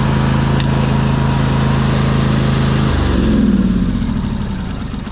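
Craftsman YT4000 riding lawn mower engine running steadily; about three seconds in its note changes, swells briefly, then begins to die away. The mower is not moving under drive, a sign that something in the drive is not hooked up.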